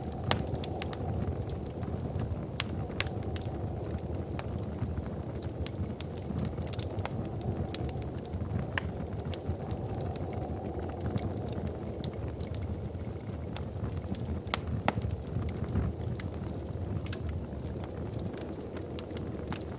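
Wood fire crackling in a fireplace: a steady low rush of flames with frequent irregular snaps and pops.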